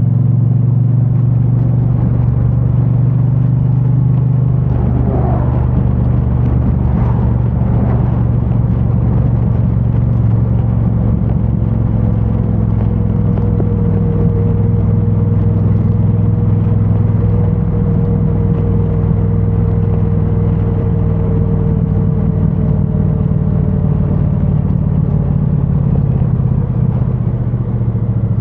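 2022 Triumph Bonneville T100's parallel-twin engine running steadily through its stock exhaust while riding, heard from the rider's backpack microphone. A faint steady whine rides over it through the middle of the stretch.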